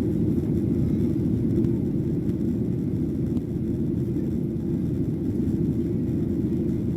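Steady low rumble of a Boeing 737-800's engines and airflow, heard from inside the passenger cabin. It holds even throughout.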